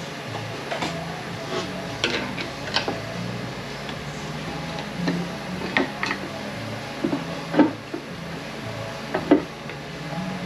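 Metal transmission parts clinking and knocking as they are handled and set down during a teardown, a dozen or so irregular clicks with a few sharper knocks.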